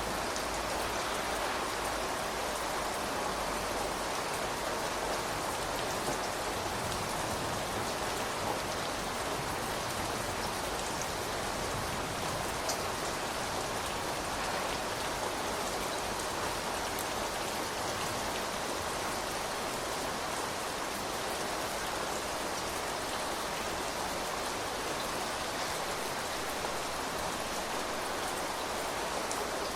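Steady rain falling, with a few separate drops ticking on a surface.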